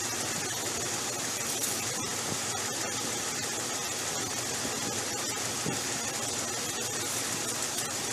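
Jeep Cherokee XJ engine idling steadily in neutral, a constant running noise with a strong hiss over it, as it would be when the transmission fluid level is read.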